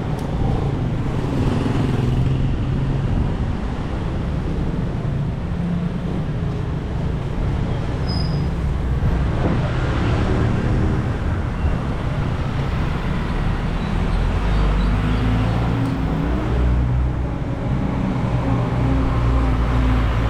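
City street traffic: the engines of cars and other motor vehicles running close by, with road noise. The sound is steady, and a deeper rumble builds about two-thirds of the way through.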